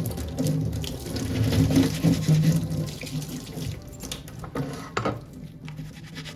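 Water running from a tap into a sink, strongest in the first half and then easing off, with a couple of light knocks near the end.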